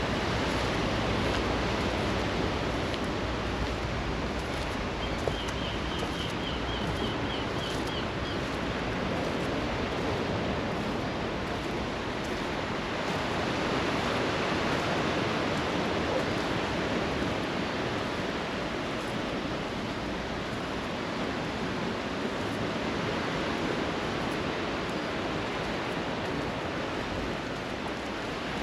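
Sea waves washing on the shore, a steady rush of surf. A few seconds in, a small bird gives a brief run of rapid high notes.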